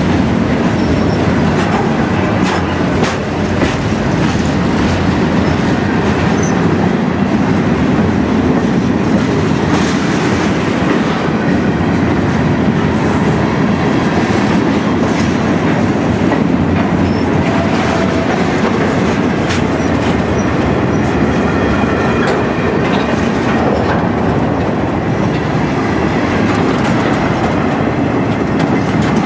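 Train rolling past close by, its wheels clicking over rail joints, with a faint wheel squeal now and then.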